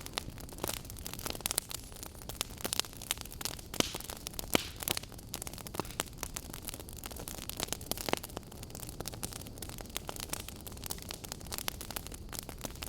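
Wood fire burning, logs crackling and popping in quick irregular snaps over a steady low hiss.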